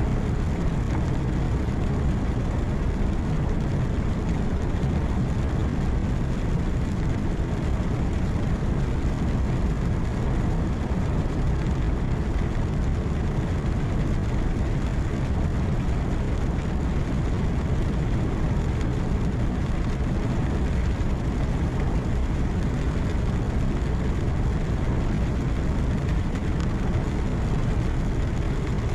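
Truck engine drone and tyre noise heard from inside the cab while cruising, steady and unchanging, strongest in the low end.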